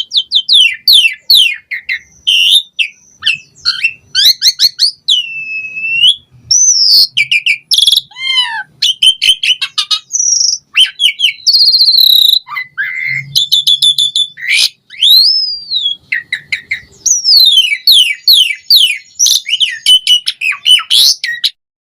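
Asian pied starling (jalak suren) singing a rapid, varied song: quick runs of repeated notes, falling whistles, slurred glides and buzzy rattles, phrase after phrase with brief gaps. It stops suddenly near the end.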